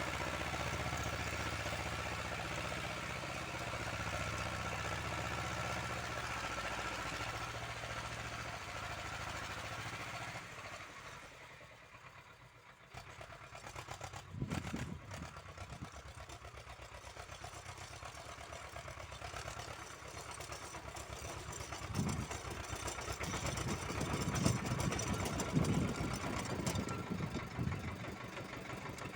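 Engine of an Uralets small tractor running steadily. About eleven seconds in it drops away to much quieter. It then comes back with an uneven, knocking chug that grows louder toward the end.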